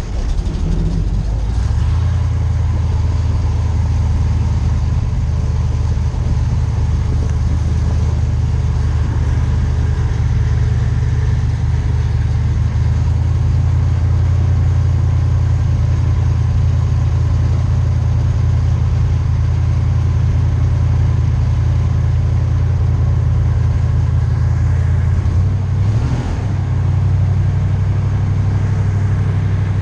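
Airboat's engine and big rear propeller running loud and steady, picking up about a second in, with a brief dip and change in the engine note near the end.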